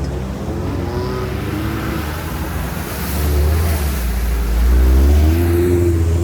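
Off-road car engine running under load, revving harder and growing louder about halfway through before easing slightly near the end.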